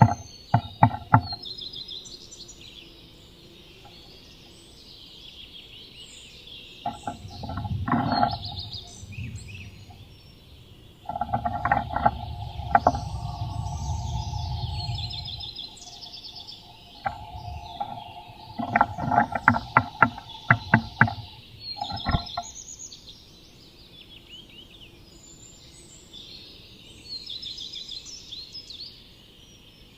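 Bursts of sharp taps and knocks inside a wooden nest box as a Eurasian nuthatch works in it, several quick strikes at a time, with rustling and a steady hum during the longer bouts. Wild songbirds chatter and sing outside the box throughout.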